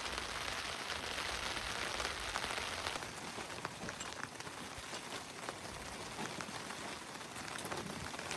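Heavy rain falling steadily as a dense, even hiss, with scattered sharper drop hits standing out, easing slightly about three seconds in.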